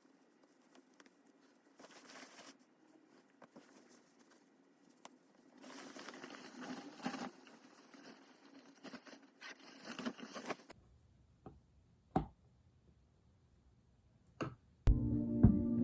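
Faint rustling and crinkling of hands handling food or packaging, with a few sharp clicks after a pause. Background music comes in near the end.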